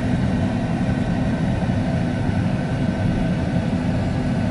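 Steady low rumble inside the cabin of a 2020 Tesla Model 3 rolling slowly: tyre and road noise with the climate-control fan running, and no engine note from the electric car.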